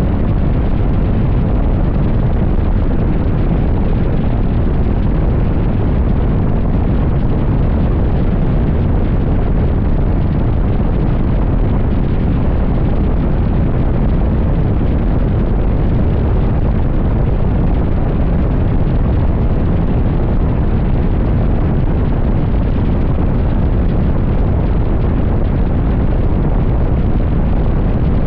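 Loud, steady wind rush and low rumble on the microphone of a motorcycle riding at highway speed.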